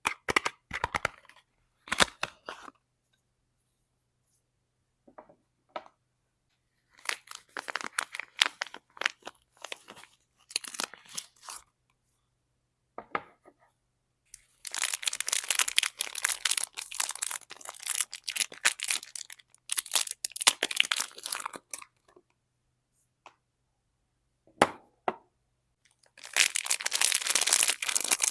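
Soap bars being unwrapped by hand: the packaging is torn open and crinkled in several long stretches of tearing and rustling, with short silent pauses between them.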